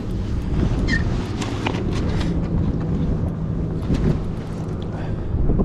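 A boat motor's steady low hum with wind rushing on the microphone, and a few scattered knocks and clunks of handling in the boat.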